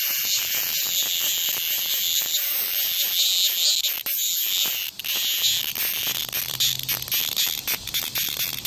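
Cicada buzzing: a loud, high-pitched rasping drone that swells and fades in strength.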